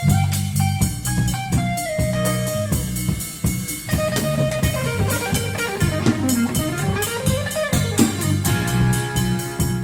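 A rock band jamming with electric guitar, bass and drum kit, the lead guitar bending notes down and back up in pitch through the middle.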